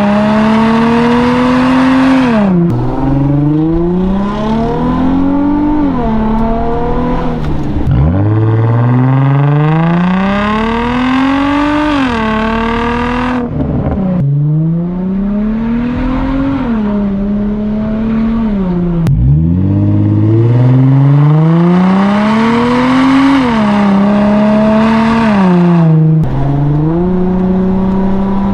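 Infiniti G35's 3.5-litre V6 through a muffler-deleted exhaust, accelerating hard through the gears. The pitch climbs and drops sharply at each shift, about every two to four seconds, with a few steadier cruising stretches between pulls.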